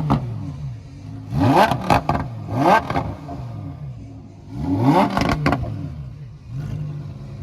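Car engine being revved repeatedly while parked: about three sharp blips, each rising in pitch and then falling back to a steady idle.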